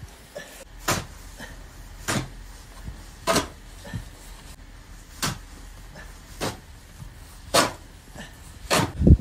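Snow shovel being worked in a steady rhythm, roughly eight short, sharp strokes a little under one a second, as snow is dug and cleared by hand.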